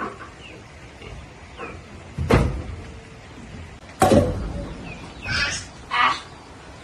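Two heavy thuds about a second and a half apart, then two short scraping rustles, with small birds chirping faintly.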